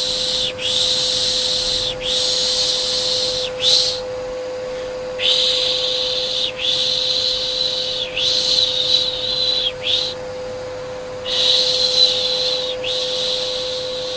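Rhythmic 'shh' shushing to lull a baby: hissing strokes of about a second each, in runs of three or four with short pauses between runs. Underneath runs the steady hum of a vacuum cleaner.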